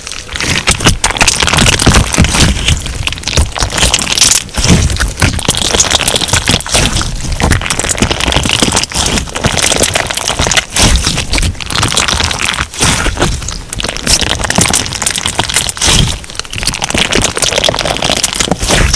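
Crunch slime being worked by hand: dense crackling and popping as the crunchy bits in the slime are pressed and squeezed, swelling and easing every second or two.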